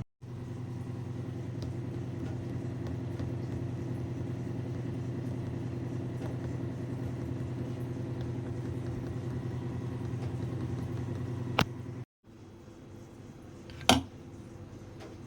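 A steady motor hum that cuts off abruptly about twelve seconds in and is followed by a quieter hum, with two sharp clicks near the end.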